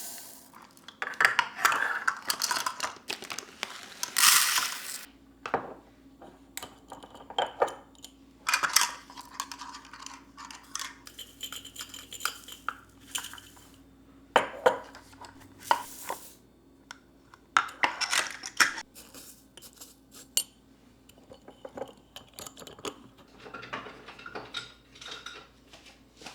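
Kitchen dishes and cutlery being handled: irregular clinks, knocks and clatters as pieces are picked up and set down, with a few longer noisy stretches between them.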